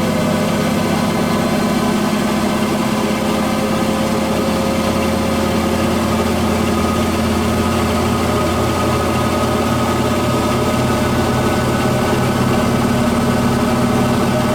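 Electrolux Wascator W355H commercial washing machine running: a steady motor and drum hum with several whining tones that drift slightly in pitch.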